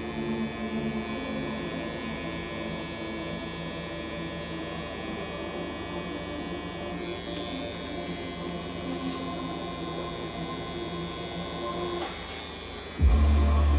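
Tattoo machine running with a steady electric hum. Near the end, loud music with a deep bass cuts in suddenly.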